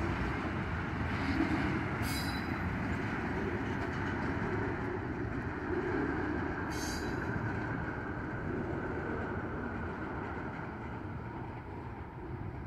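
Norfolk Southern freight train of tank cars and container well cars rolling slowly through the yard: a steady rumble of steel wheels on rail, with two brief sharp high-pitched sounds, about two seconds in and again about seven seconds in. It grows fainter near the end as the tail of the train draws away.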